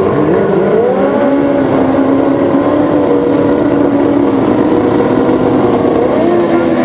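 Pro Street drag-racing motorcycle engines running loud at held, steady revs. The pitch rises about a second in and steps up again near the end.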